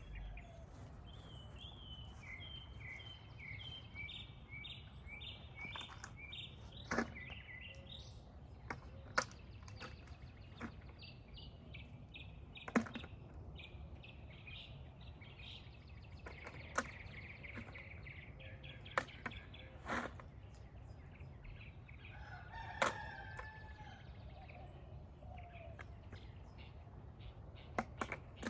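Quiet outdoor ambience: a bird repeats short high chirps for the first several seconds, and a rooster crows once for a couple of seconds near the end, over a steady low rumble with a few scattered sharp clicks.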